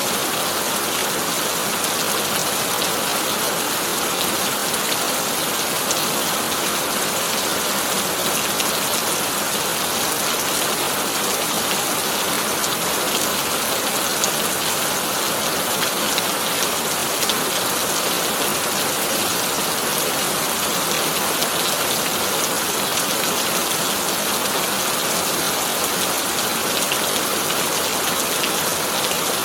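Heavy rain falling steadily on a tin roof: a dense, even hiss of countless drops with fine individual ticks.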